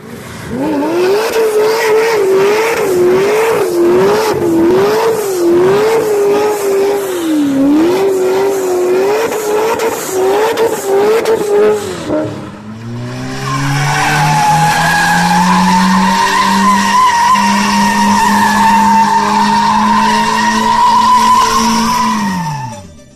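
A car engine at high revs with tyres screeching, as in drifting or a burnout. For the first half the pitch wavers up and down. After a short break about halfway through, the revs climb and then hold alongside a steady, high tyre squeal, and everything cuts off near the end.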